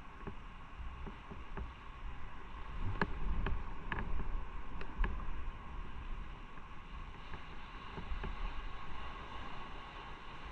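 Motorcycle engine running while riding, heard from an onboard camera with road and wind noise, and a few sharp knocks a few seconds in.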